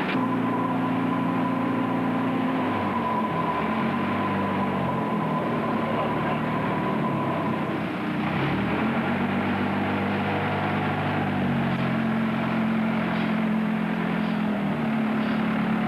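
A vehicle engine running, its low drone shifting up and down in pitch every few seconds, with a brief dip about halfway through.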